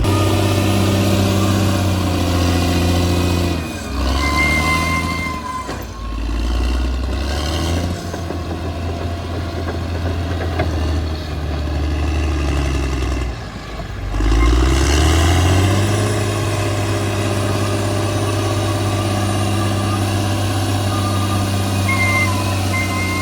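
Bulldozer's diesel engine running hard, its pitch dipping and then climbing back twice, about four seconds in and again around fourteen seconds in. A thin high whine comes in briefly about five seconds in and again near the end.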